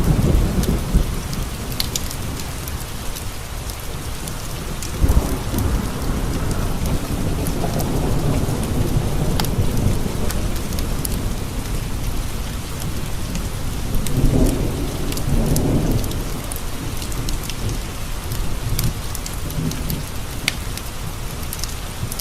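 Steady rain falling on windowpanes with rolling thunder: low rumbles swell just as it begins, again about five seconds in, and once more about two-thirds of the way through. Scattered sharp ticks sound over the rain.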